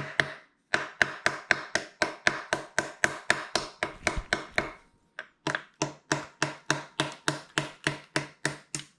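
Small hammer tapping repeatedly on a stuck part of a Kawasaki Bayou 220 ATV engine, about four blows a second with the metal ringing faintly between them, pausing briefly about five seconds in before the tapping resumes.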